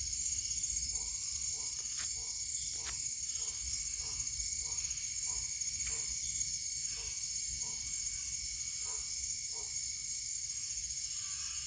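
Tropical insect chorus, a steady high shrill drone of many insects. Over it, a short low call repeats roughly every two-thirds of a second, with a few faint clicks.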